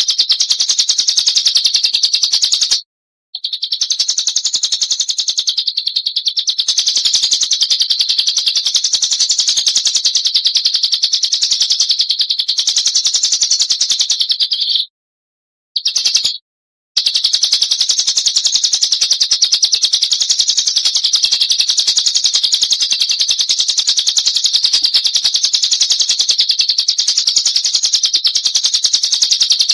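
Oriental magpie-robin singing a fast, unbroken, high-pitched chattering trill, cutting out abruptly for a moment about three seconds in and for about two seconds near the middle.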